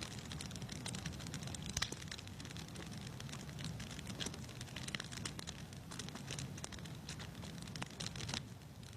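Wood fire crackling in a fireplace: irregular pops and snaps over a steady low rumble, with one sharper crack about two seconds in.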